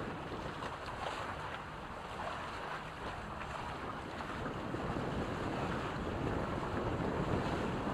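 Wind rushing over the microphone and water rushing along the hulls of a Reynolds 21 sailing catamaran under way. A steady noise with no distinct events, growing a little louder in the second half.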